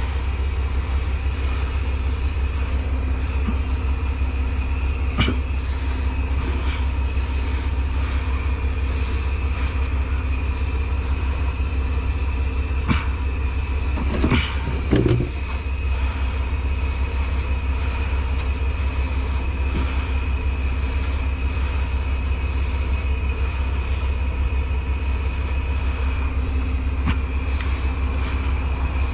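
Heavy truck running with a steady low rumble, with a few short knocks and rattles, the loudest cluster about halfway through.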